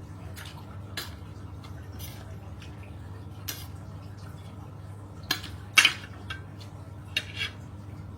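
Close-up eating sounds of someone eating spicy papaya salad with chicken feet: scattered wet smacks and clicks of chewing, with the loudest click about six seconds in, over a steady low hum.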